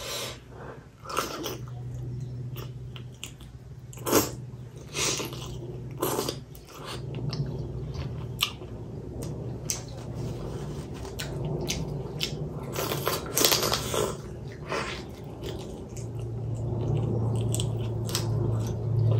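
Close-miked chewing and wet lip-smacking of a person eating soup-soaked chicken momo, with many short sharp mouth clicks. A low hum comes and goes underneath.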